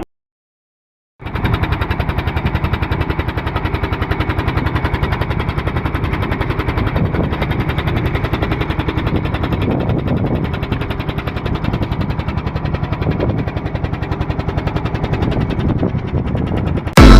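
Boat engine running steadily, a fast even pulsing chug, starting suddenly about a second in.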